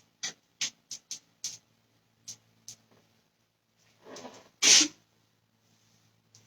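Light clicks and taps, about seven in the first three seconds, then a short breath and one sharp, loud burst of sound from a person a little past the middle.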